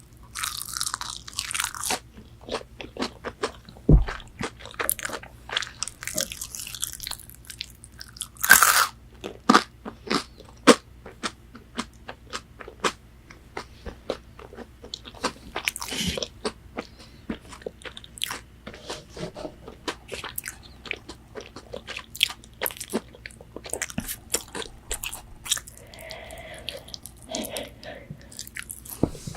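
Close-miked eating of McDonald's chicken nuggets: crisp bites and crunching chews with wet mouth clicks throughout. There is a dull thump about four seconds in.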